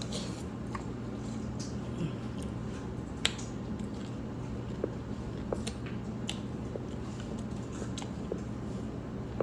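Close-up eating sounds: chewing with scattered sharp mouth clicks and smacks, the loudest about three seconds in, over a steady low hum.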